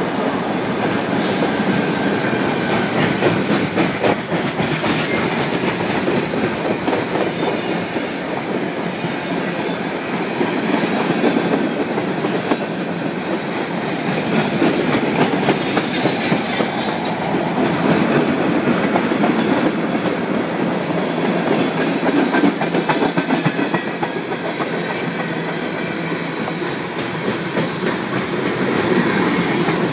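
Freight train passing close by: the last of the Indiana Rail Road diesel locomotives goes by in the first seconds, then a long string of tank cars and hoppers, with steel wheels rumbling and clicking steadily over the rail joints.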